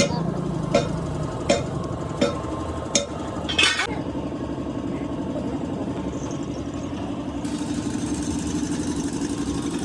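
Sharp metal knocks, about one every three quarters of a second for the first few seconds, typical of hammering during roadside axle and spring repair work. From about four seconds in, an engine idles steadily.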